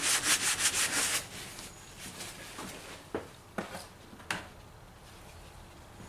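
Brisk rubbing strokes for about a second, then four light clicks and taps of hand work on metal parts.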